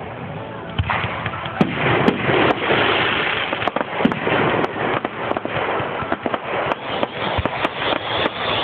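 Aerial fireworks going off in quick succession. From about a second in there is a dense run of sharp bangs and crackles over a steady hiss.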